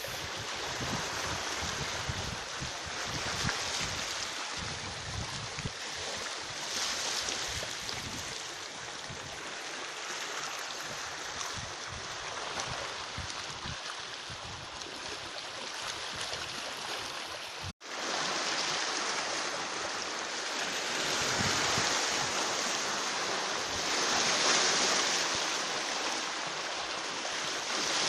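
Sea surf washing on the shore, a continuous rush that swells in surges and is loudest near the end, with low wind buffeting on the microphone in the first half. The sound cuts out for an instant about two-thirds of the way through.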